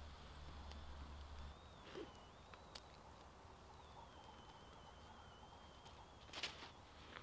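A small, newly lit kindling campfire, faint, with a few sharp crackles and snaps, the loudest about six seconds in, and a thin high whistle that wavers in pitch for a few seconds in the middle.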